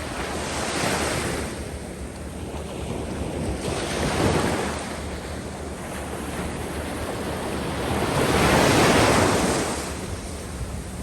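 Sea waves breaking and washing up over the sand of a beach, surging three times, the largest near the end. Wind buffets the microphone with a steady low rumble.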